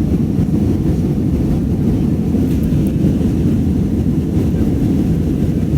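Steady low rumble of airliner cabin noise: jet engines and airflow heard from inside the passenger cabin.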